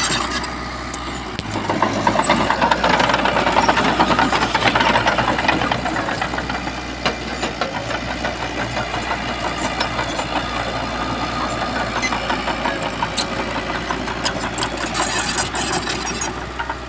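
Shantui bulldozer's diesel engine running under load. It gets louder for a few seconds about two seconds in, then settles to a steady working level.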